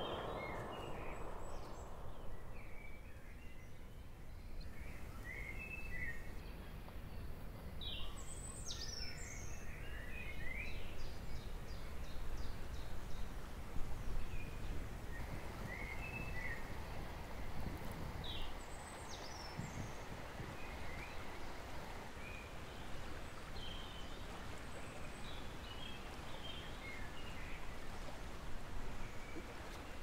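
Scattered birdsong: many short chirps and quick falling calls from several small birds, over a steady low background rush.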